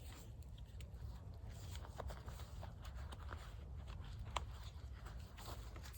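Faint handling sounds: scattered soft clicks and rustles, with one sharper click about four and a half seconds in, over a low steady rumble.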